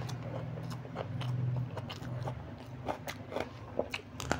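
A person chewing a mouthful of egg biryani, with wet mouth clicks and smacks over a low hum. Near the end come several sharp crunchy bites into a raw green chilli.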